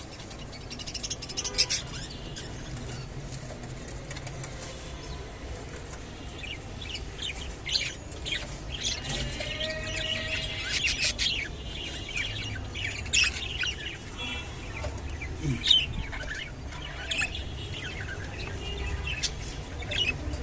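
Budgerigars chirping and warbling in short bursts, busiest in the middle, with scattered sharp clicks.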